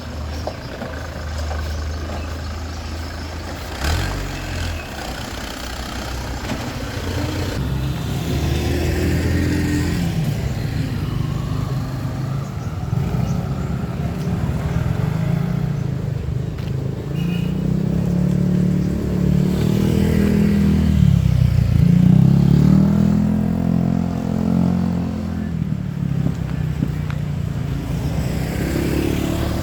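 Motor vehicle engines running close by, their pitch rising and falling as they rev and pass, with a single knock about four seconds in.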